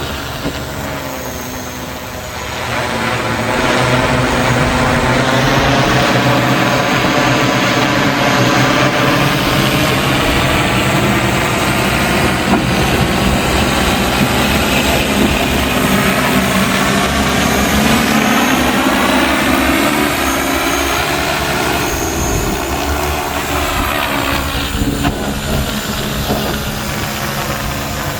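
Large multirotor delivery drone's propellers buzzing in flight, a dense many-toned hum that grows louder two to four seconds in, its pitch sweeping up and down as the rotors change speed.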